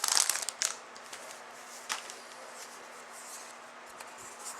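Trading-card pack wrapper crinkling and cards being handled: a burst of crinkling at the start, then quieter rustles with a single click about two seconds in.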